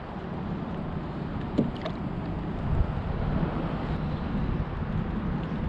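Steady wind and water noise around a small fishing boat, with a couple of faint light ticks about a second and a half in.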